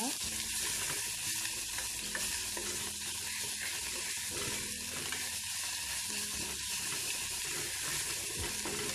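Onions and ginger-garlic paste sizzling steadily in hot oil in a metal pot while being stirred with a wooden spatula.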